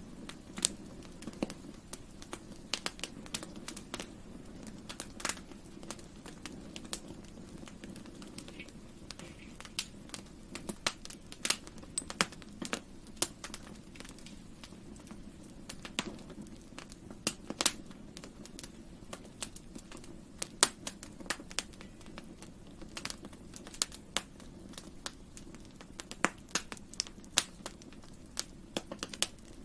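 Wood campfire crackling: irregular sharp pops and snaps, a few louder than the rest, over a steady low rush of burning.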